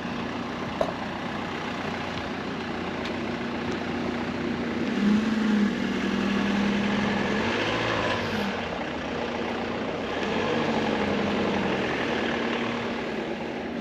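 An engine running steadily, its hum stepping up and down in pitch and growing louder about five seconds in and again near the end, over a broad rushing noise.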